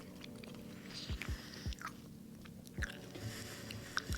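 Someone chewing a jelly bean, with faint, irregular soft chewing clicks.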